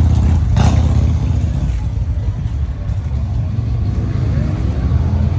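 Motorcycle engines running: a loud, steady low rumble.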